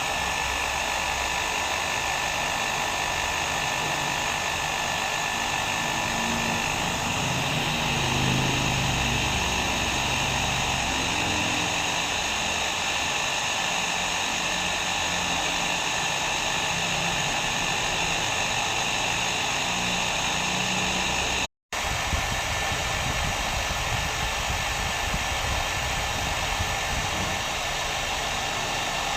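Hair dryer running steadily, a continuous rush of air with a faint steady whine in it, broken once by a split-second drop-out to silence about three-quarters of the way through.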